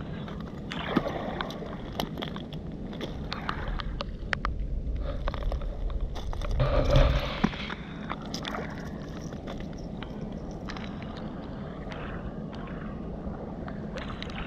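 Pebbles and shingle clicking and crunching on a river foreshore as finds are picked through by hand, over a steady low rumble, with a louder rumbling swell about seven seconds in.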